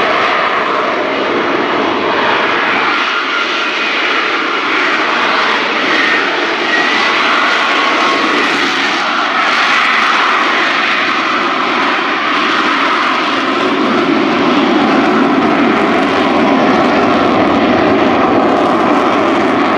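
Lockheed Martin F-35B Lightning II's jet engine running loud and steady, a broad rushing roar with a thin whine in it, growing a little louder in the second half.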